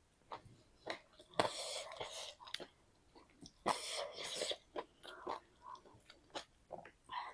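A person chewing a mouthful of food close to the microphone, with wet mouth sounds coming in irregular bursts separated by short pauses.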